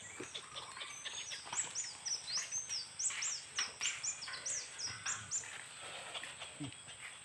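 Birds chirping: a quick run of short, high, sliding chirps from about half a second in until about five and a half seconds in, over faint outdoor background.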